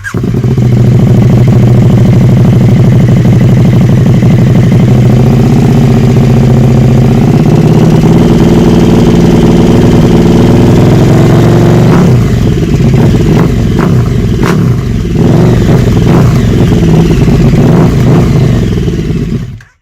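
KTM 1290 Super Duke R's V-twin engine running loud through its exhaust, idling steadily at first. About twelve seconds in it breaks into a run of short, sharp throttle blips until the sound cuts off.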